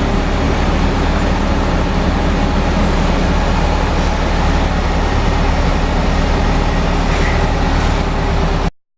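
Bus engine and road noise, a steady low rumble that cuts off suddenly near the end.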